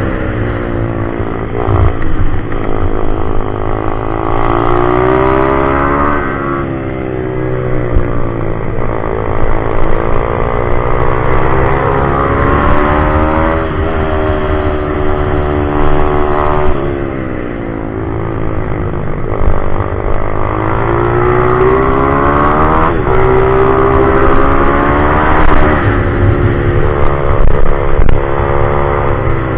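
Single-cylinder pit bike engine revving up and dropping back over and over, its pitch rising on the straights and falling when it backs off for the corners, with a heavy low rumble beneath.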